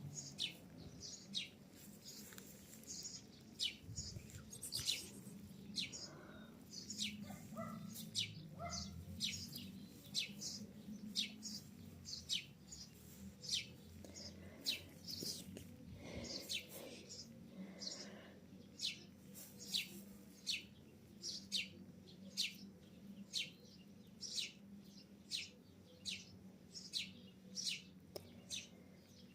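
A bird chirping over and over: short, high chirps that sweep downward, repeating about once a second.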